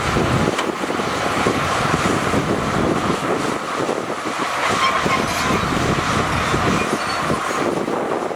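Shantui crawler bulldozer working: the diesel engine runs under load while its steel tracks clank and rattle.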